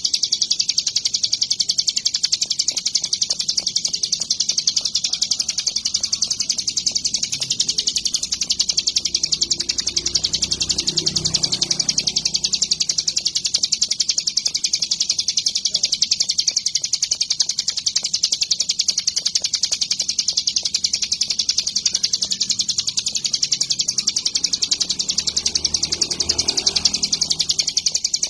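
Ciblek gunung, a mountain prinia, singing without a break: a fast, unbroken run of high, chattering notes.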